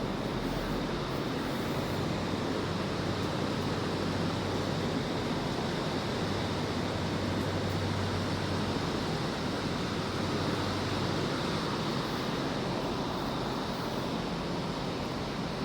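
Heavy storm of wind and rain, a steady unbroken rushing noise.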